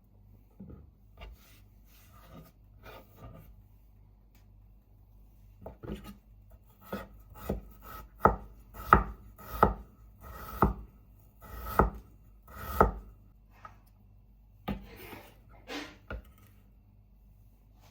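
Kitchen knife chopping food on a cutting board in separate strokes: a few light cuts, then a run of about eight firmer chops roughly one a second, then a few light cuts again.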